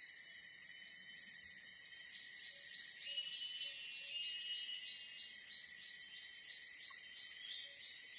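Chorus of forest insects: several high, steady trills and whines overlapping, some starting and stopping every second or so.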